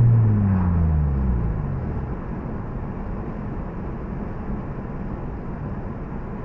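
Honda Civic Si's 2.0-litre four-cylinder engine note falling in pitch over the first two seconds as the throttle is eased off, then steady tyre and wind noise heard inside the cabin at cruising speed.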